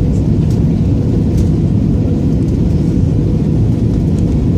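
Steady low rumble of engine and airflow noise inside an Airbus A320 cabin.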